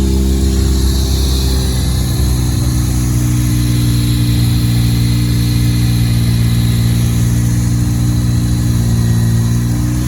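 A car engine running steadily at an even pitch, with a faint high whine above it.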